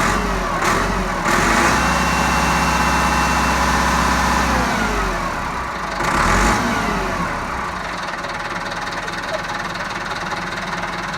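Engine revving in short rises at first, then held at high revs for a few seconds and dropping about four to five seconds in, with one more brief rev near six seconds before settling to a steady idle. This is the engine work of a tractor tow-starting a truck.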